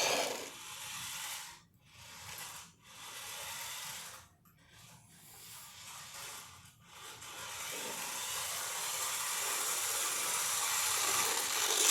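Toy RC car's small electric motor and gears whirring in short bursts as it is driven, cutting out several times in the first seven seconds, then running steadily and getting a little louder toward the end.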